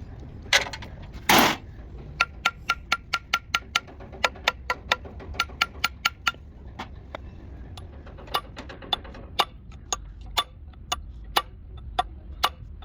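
Metal tools knocking and tapping on metal parts: one heavier knock, then a quick series of sharp metallic taps about three to four a second, some with a brief ringing tone, slowing to scattered taps.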